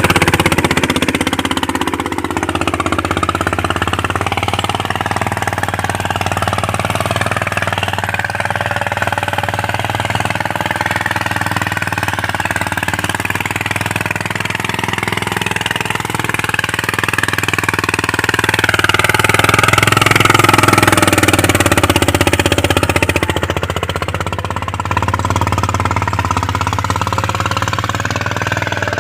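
Mahindra Yuvraj 215 NXT mini tractor's single-cylinder diesel engine running steadily, getting louder for a few seconds about two-thirds of the way through.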